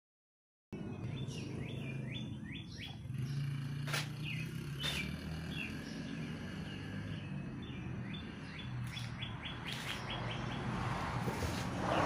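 Small birds chirping outdoors: repeated short high notes, some falling in pitch and some in quick runs of several chirps, over a steady low hum, with a few sharp clicks. The sound cuts out completely for a moment at the start.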